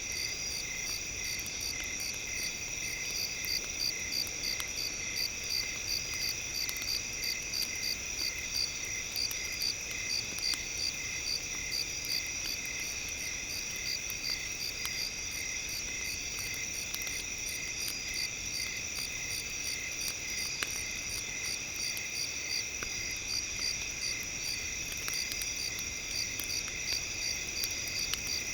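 Crickets chirping in a steady chorus, an even pulsing of high tones about three times a second, with faint scattered crackles from a campfire underneath.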